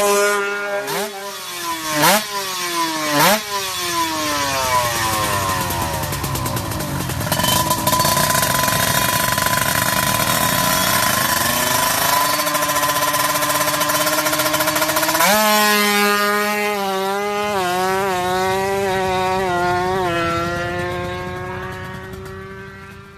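Kawasaki Ninja 150's two-stroke single-cylinder engine being revved: a few quick throttle blips, then a long high-revving stretch, dropping suddenly about 15 s in to a lower, wavering note with small throttle blips, fading out at the end.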